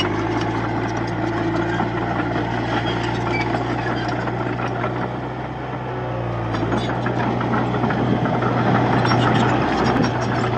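Heavy diesel engine of earth-moving machinery running steadily. It eases off a little about five seconds in, then builds up again, with light metallic clatter over it in the second half.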